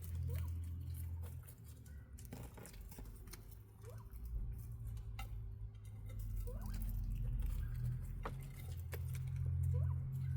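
Quail giving short rising peeps several times, with light scratching and pattering in the litter, over a steady low rumble.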